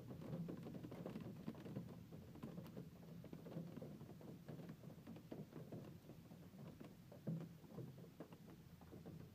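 Hail falling, a faint, dense patter of many small irregular impacts, with a louder cluster about seven seconds in.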